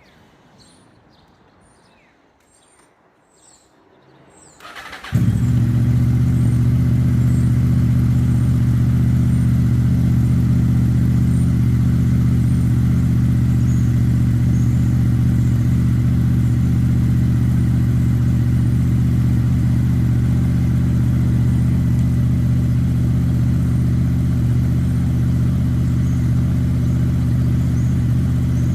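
Quiet with a few faint bird chirps, then about five seconds in a Honda VFR800's V4 engine is started and settles straight into a steady idle that runs on unchanged.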